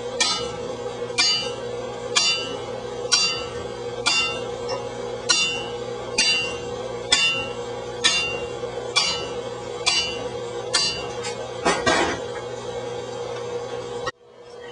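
Blacksmith's hammer striking a chisel driven into hot steel on an anvil, slicing the stock open: evenly paced ringing blows about once a second over a steady hum. The blows stop abruptly shortly before the end.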